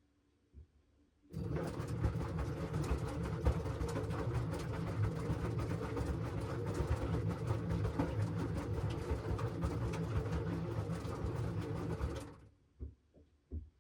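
LG washing machine's motor turning the drum during the wash: a steady hum with the tumble of the load starts about a second in, runs about eleven seconds and stops near the end, followed by a few faint knocks as the drum comes to rest.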